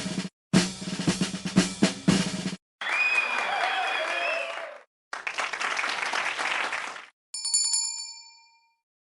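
A string of sound effects: a snare-drum roll with accented hits for about two and a half seconds, then two short bursts of cheering and applause. Near the end comes a single bell ding that rings out briefly.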